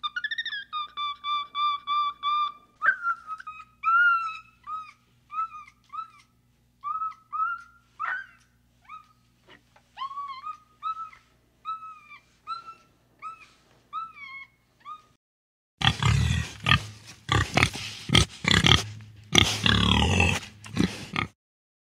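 A string of short, high, squeaky calls, each bending up and then down, with a few longer held notes at the start: a young chimpanzee calling. About three quarters of the way through these stop, and wild hogs take over with a run of loud, rough grunts.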